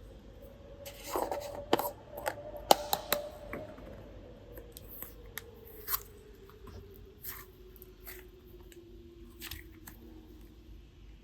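Crisp snips and clicks from handling clay or slime. A quick cluster of them comes between about one and four seconds in, then single clicks at intervals, over a faint tone that slowly falls in pitch.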